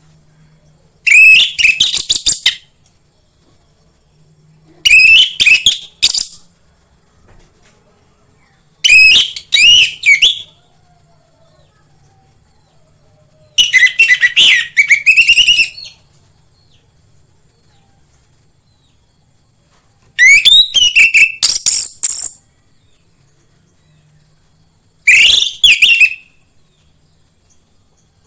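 Orange-headed thrush singing loud phrases of quick, fluty whistles, six in all, each lasting about one and a half to two and a half seconds, with pauses of a few seconds between them. A faint steady hiss runs underneath.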